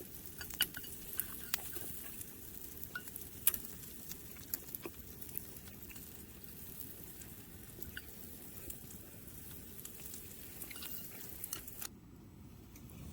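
Yakiniku meat sizzling on a grill: a steady hiss with scattered sharp pops of spitting fat. The hiss cuts off suddenly near the end.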